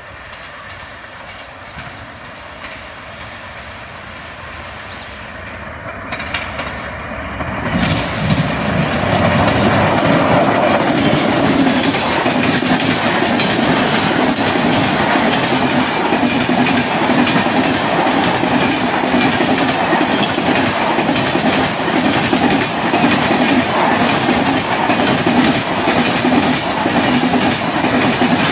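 Electric express train headed by an Indian Railways WAP-7 locomotive, approaching with a rising rumble, then passing close at full speed. About eight seconds in it becomes loud and steady: wheels rushing on the rails with a rapid clickety-clack over the rail joints as the coaches go by.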